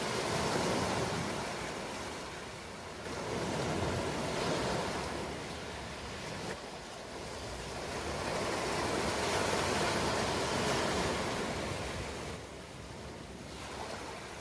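Ocean waves in continuous surf, the wash swelling and easing about three times in slow surges.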